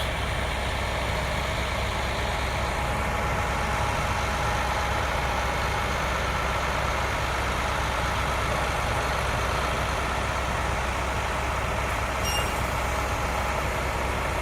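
Heavy diesel truck engines running steadily as a concrete pump truck is fed by a mixer truck during a pour: a constant low drone.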